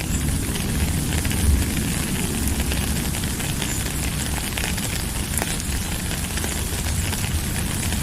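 Steady rain: an even hiss of falling drops with scattered sharper drip ticks, over a low rumble.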